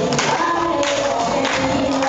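A group of children singing a song together over instrumental accompaniment, the voices holding and sliding between notes.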